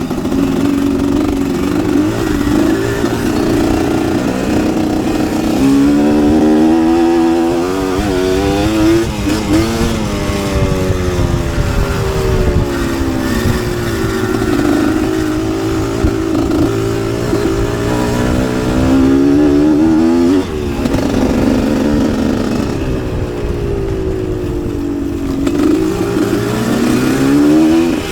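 Two-stroke motocross bike's engine at full ride, its pitch climbing and dropping again and again as the throttle is opened and rolled off over the track.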